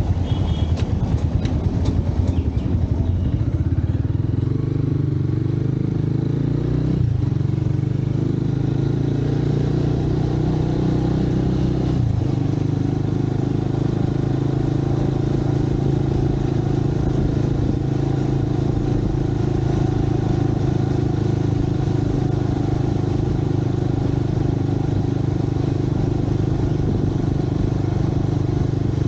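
Motorcycle engine running under way, pulsing at first. Its note shifts abruptly a few times in the first twelve seconds, then holds steady as the bike cruises, with road and wind noise.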